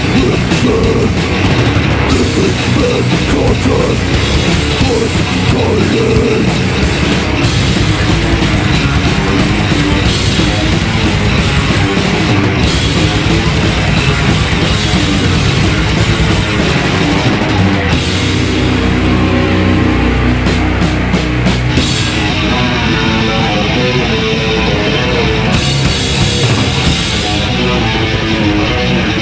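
Heavy metal band playing live, with distorted electric guitars, bass and a drum kit at full volume.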